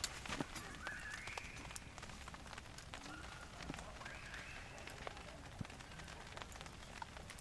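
Faint crackling of a wood campfire: scattered sharp pops and clicks over a low hiss. A bird calls briefly a couple of times.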